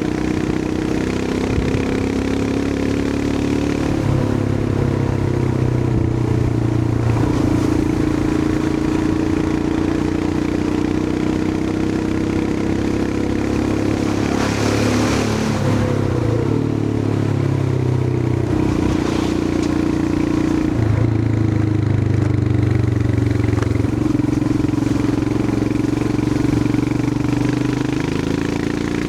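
Royal Enfield Himalayan 411's single-cylinder engine running as the motorcycle rides along, its note shifting up and down several times with throttle and gear changes. About halfway through, a brief rush of noise rises over the engine.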